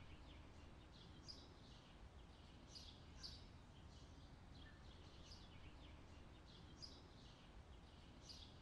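Near silence with faint outdoor ambience and scattered short, high bird chirps.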